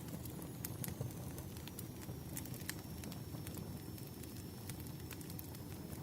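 Wood fire in a fireplace crackling, with irregular sharp pops over a steady low rumble and a faint thin high whistle.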